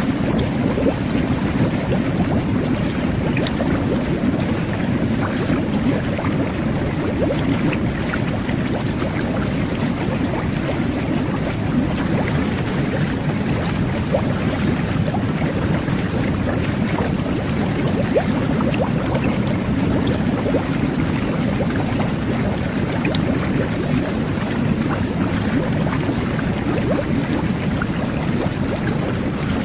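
Jet bath (whirlpool tub) running: water jets churning and bubbling the bathwater in a steady low rush with continuous small pops of bubbles.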